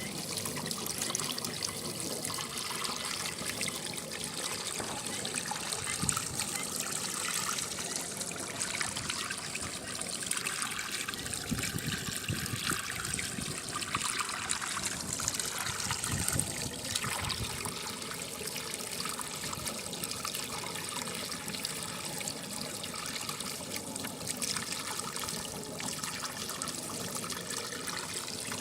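Water running and trickling steadily: rainwater draining into a bore well to recharge it.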